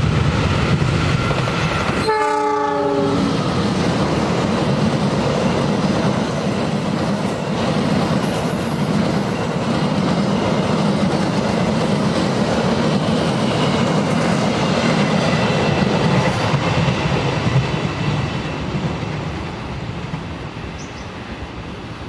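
Diesel-hauled passenger train passing close by. The locomotive gives one short horn blast about two seconds in, over the steady noise of the engine and coaches going past, which fades away near the end.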